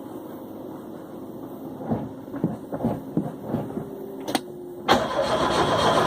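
A car that won't start: a run of clicks and knocks, then about five seconds in a loud, steady mechanical noise starts up and keeps going.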